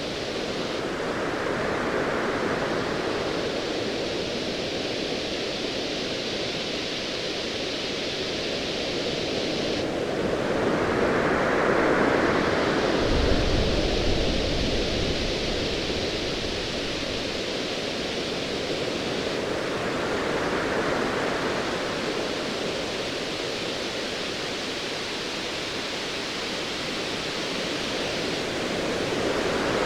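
Sea waves swelling and washing in roughly every nine to ten seconds over a steady hiss, with a low, distant thunder rumble a little before the middle.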